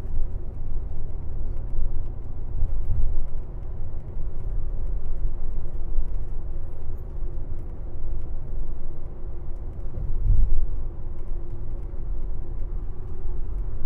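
Airport limousine bus driving along, heard from inside the passenger cabin: a steady low engine and road rumble with a faint steady hum, swelling briefly twice.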